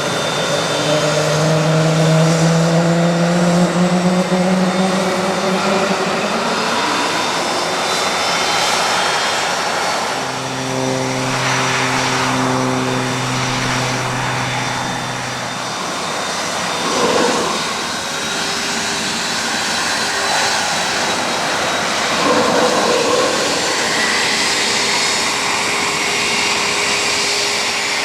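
Twin turbofan engines of a Cessna 525A Citation CJ2 running at taxi power: a steady jet whine over a rushing hiss. A low hum comes in partway through and fades out again.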